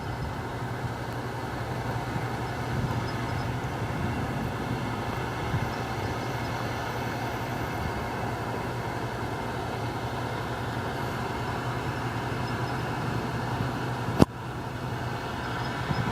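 New Holland TX62 combine harvester running steadily while harvesting wheat, a continuous mechanical hum of engine and threshing gear. A single sharp click comes about fourteen seconds in, after which the sound is slightly quieter.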